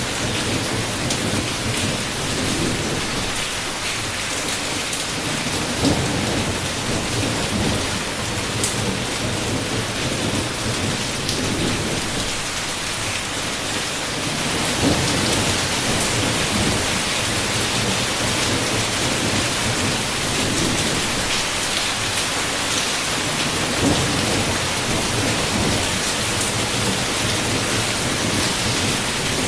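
Heavy rain falling steadily, with low thunder rumbling in swells every few seconds.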